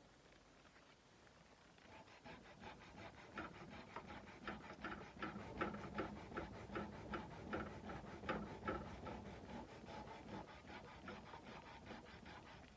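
Sandpaper rubbed by hand along a Nepalese kukri's steel blade in quick back-and-forth strokes, about three a second, starting about two seconds in.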